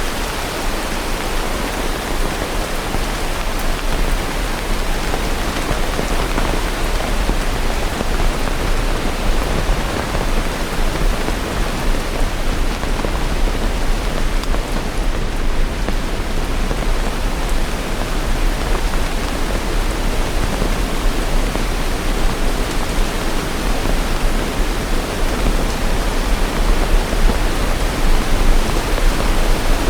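Steady rain, an even hiss with a constant low rumble underneath.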